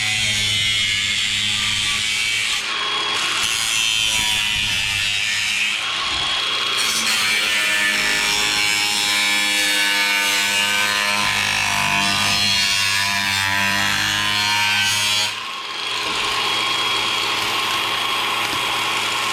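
A power saw cutting through a wooden panel, running continuously with a brief dip about fifteen seconds in. It stops right at the end.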